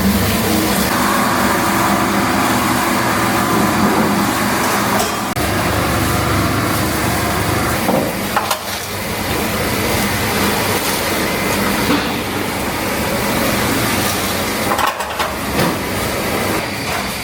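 Food-factory processing machinery running, a loud steady mechanical din that changes abruptly a few times.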